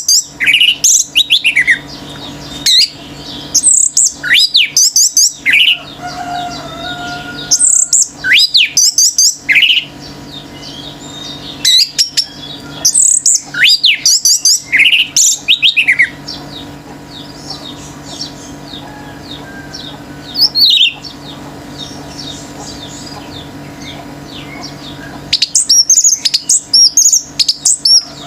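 Orange-headed thrush singing in loud bursts of rapid, varied phrases with high sweeping notes, each burst lasting a few seconds with pauses between and a long pause midway. Fainter calls of other birds fill the gaps.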